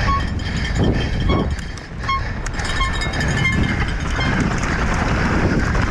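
Wind buffeting the microphone of a mountain bike descending at speed, with the bike rattling and clattering over rough ground and brief high squeaks scattered through.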